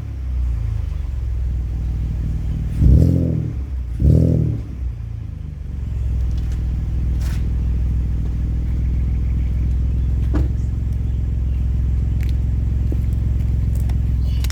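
Ford Explorer's exhaust through MagnaFlow mufflers with the resonator deleted: two quick throttle blips about three and four seconds in, each rising and falling back. After that the engine settles into a steady idle.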